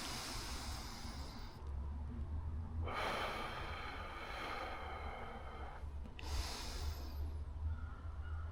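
A person breathing audibly and slowly, three long breaths, over a steady low rumble.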